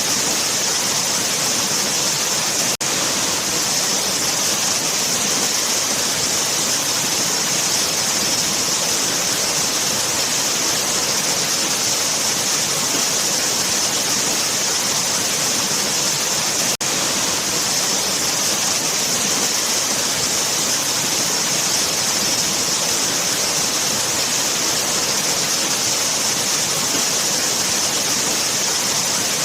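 Waterfall: falling water with a steady, dense hiss that is brightest in the high range. The sound is broken by two momentary dropouts, about three seconds in and again about seventeen seconds in.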